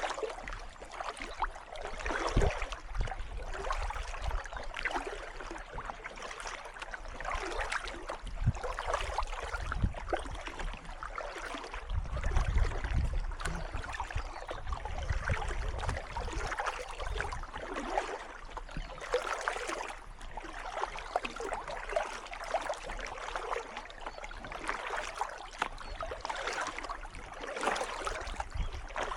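Kayak paddle strokes splashing and dripping in calm canal water, coming again and again in uneven surges over a steady trickle of water. A low rumble joins in for a few seconds around the middle.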